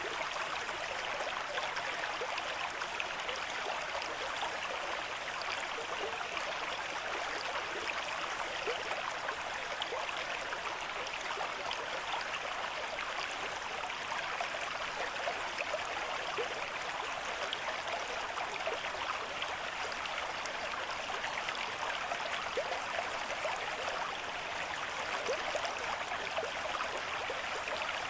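Running water of a small stream flowing steadily, an even rush with many tiny splashes and bubbles.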